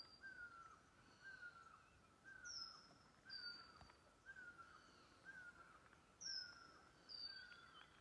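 Faint birdsong in forest: one bird repeats a short falling whistle about once a second, with higher, thin falling notes now and then.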